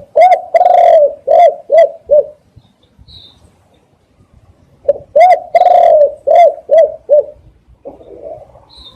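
Spotted dove cooing: two phrases of about six coos each, a few seconds apart, each phrase with one drawn-out coo near its start among shorter ones.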